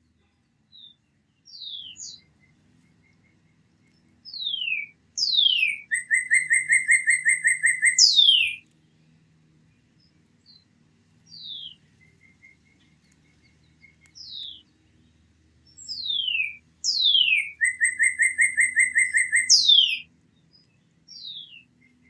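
A wild songbird singing the same song twice: a run of clear falling whistles that leads into a fast, loud trill, closed by one more falling whistle.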